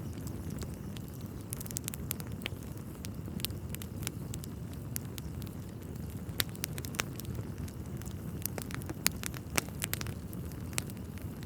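Wood fire burning in a fireplace: a steady low rumble with irregular crackles and several sharper pops of the burning logs.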